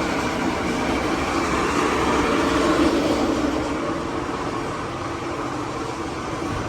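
Chilled-water air handler running with a loud, steady mechanical noise and hum. The technician traces the noise to a blower motor with a failed bearing and mounting bolts that have vibrated out.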